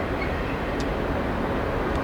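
Freight train rolling past: a steady rumble of railcar wheels on the rails, with a brief high click about a second in.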